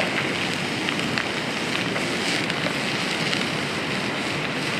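Steady hiss with scattered small pops and crackles: burger meat frying in oil in a cast-iron skillet over a campfire, mixed with wind and rain.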